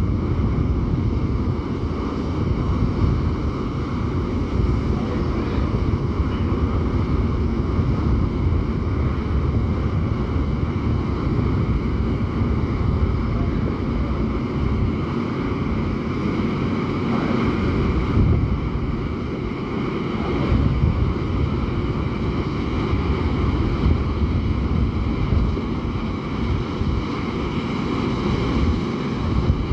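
Wind buffeting the microphone over the steady low rumble of a ferry's engines as it puts out, with faint steady whining tones higher up. There is no horn blast.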